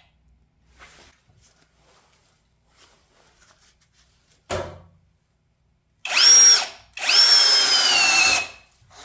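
Deko brushless cordless drill spinning a 7/8-inch bit in two short trigger pulls: a brief run about six seconds in, then a longer one whose motor whine sinks steadily in pitch as the bit loads up in the cut. A single knock comes a second or two before.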